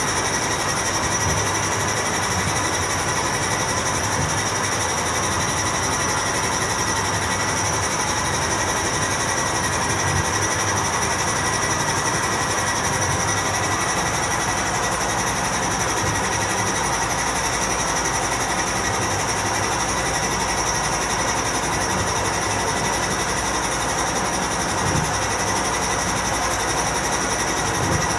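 National NA-F70PX7 washing machine spinning with a loud abnormal mechanical noise, a steady whine over a harsh, busy drone. The owner takes it for a loose rubber belt on the motor pulley or loose motor mounting screws.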